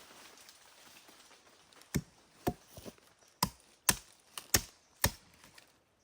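A blade chopping: about eight sharp strikes at uneven intervals, starting about two seconds in.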